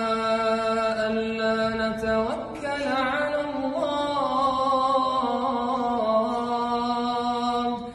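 Male voice singing an Arabic Islamic nasheed in long, melismatic held notes that bend in pitch, over a steady low sustained drone. The line breaks off briefly about two seconds in and again at the end.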